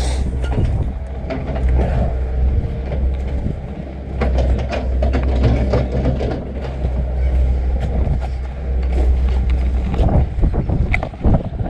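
Strong wind buffeting the microphone as a loud, low, steady rumble, with irregular footsteps and small knocks on the trail.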